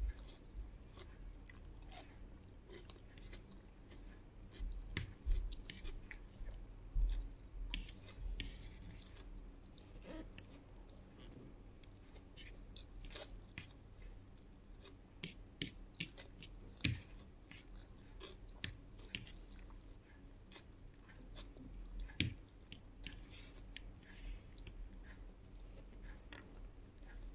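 Close-miked chewing of a mouthful of rice with fried egg, fried fish and tomato, with many small irregular mouth clicks and a few louder bites.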